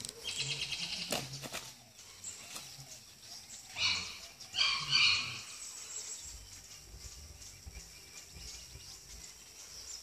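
Birds calling: a fast high chattering trill in the first second and a half, then two loud calls about four and five seconds in.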